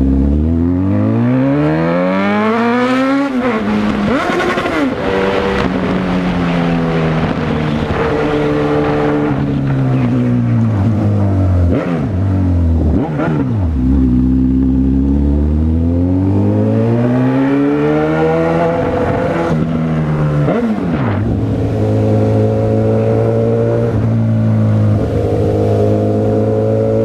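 Honda CB1000R's inline-four engine under way, revving up and down: its pitch climbs several times, drops sharply as the throttle closes about 13 and 20 seconds in, and holds nearly steady near the end.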